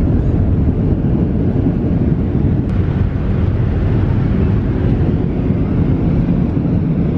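Steady, loud rumble of a Boeing 737's jet engines and rushing air, heard from inside the cabin.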